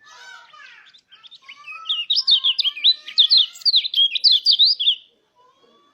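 White-eye (pleci) song: a fast run of sharp, high chirping notes, about five or six a second, loudest from about two seconds in and stopping near five seconds, with fainter chirps before it.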